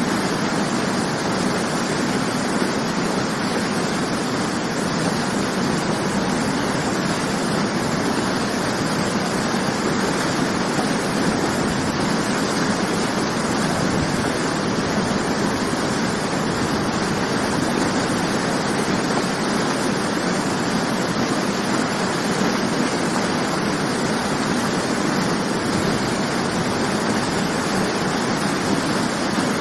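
Waterfall: water falling and splashing in an even, unbroken rush.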